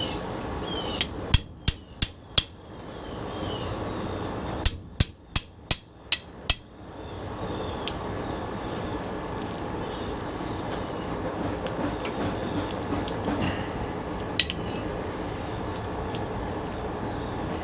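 Hammer blows on metal in two quick runs of five or six sharp, ringing strikes each, about three a second, a few seconds apart. A single knock comes later.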